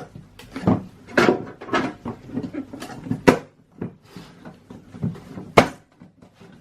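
Irregular knocks and clicks of a glass headlight lens being handled and pressed into the headlight housing during a test fit, the sharpest knocks about a second, three seconds and five and a half seconds in.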